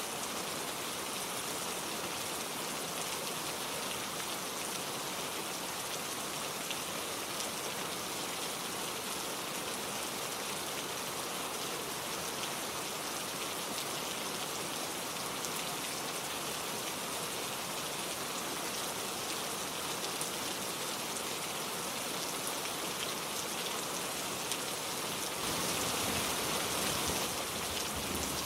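Steady gentle rain falling, with scattered drops ticking. It grows a little heavier and fuller for a couple of seconds near the end.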